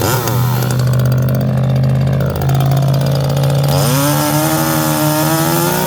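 Husqvarna two-stroke gas chainsaw running at a steady low speed, then revved up about four seconds in and held at high speed.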